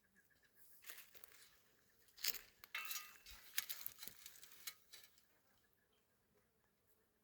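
Faint chukar partridge calling: a run of quick repeated notes in the first second, with more call notes among loud crackling rustles and clicks about two to five seconds in.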